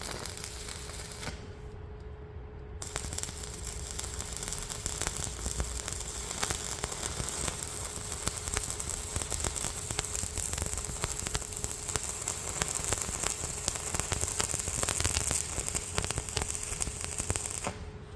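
Electric arc welder crackling and spitting as weld is laid on the metal hood of a hedgecutter, over a faint steady hum: a short burst, a pause of about a second and a half, then one long continuous run that stops near the end.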